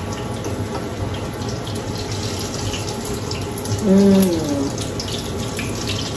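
Egg-and-Parmesan-battered cauliflower florets frying in shallow oil in a skillet: a steady sizzle, with light clicks of a fork turning the pieces in the pan. About four seconds in, a brief hum from a voice.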